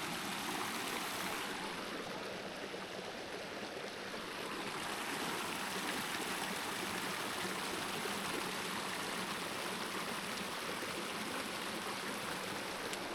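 Shallow creek running over rocks: a steady rushing of water.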